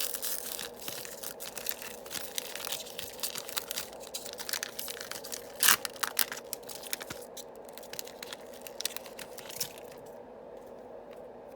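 Yu-Gi-Oh! booster pack wrapper being torn open and crinkled in the hands, a dense run of crackling and tearing with one sharp, louder rip about halfway through. The handling stops about ten seconds in.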